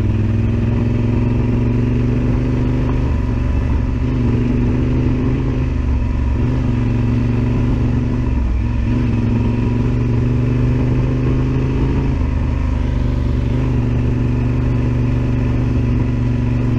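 Yamaha Super Ténéré XT1200Z's parallel-twin engine running steadily at low speed on a dirt trail, easing off briefly about eight seconds in.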